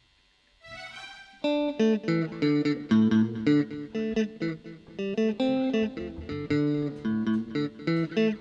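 Amplified guitar playing a fast run of picked notes with bass underneath, coming in about a second and a half in after a brief quiet start.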